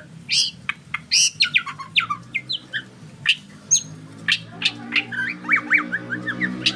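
White-rumped shama singing a fast, varied song of sharp chirps, clicks and short whistled notes that sweep up and down, over a steady low hum.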